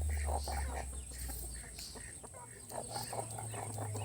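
Chickens clucking in a series of short, repeated calls, over a low steady hum.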